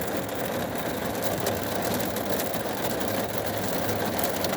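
Heavy rain mixed with hail pouring down: a dense, steady hiss peppered with many small hail ticks.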